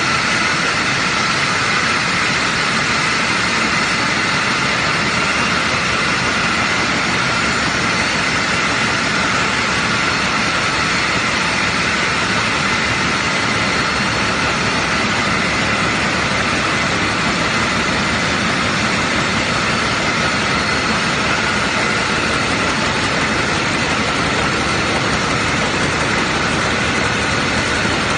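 Net-making machinery running steadily in a production shop: a loud, unbroken mechanical din with a constant high whine.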